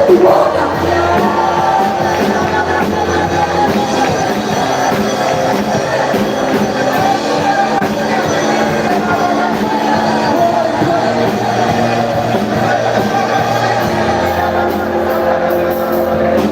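Live church worship music playing steadily with sustained chords, with congregation voices singing and calling out over it.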